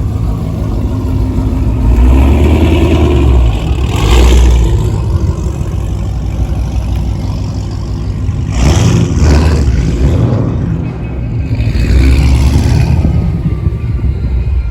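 Car engine revving loudly in about four surges over a steady low rumble.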